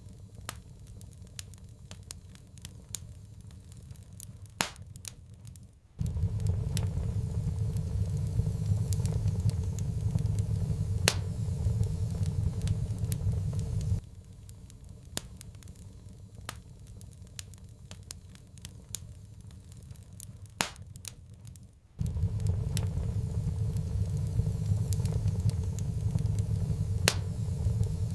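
Wood fire in a fireplace crackling with scattered sharp pops, over a low rumble of burning that cuts in abruptly about six seconds in, drops out about eight seconds later and returns near the end.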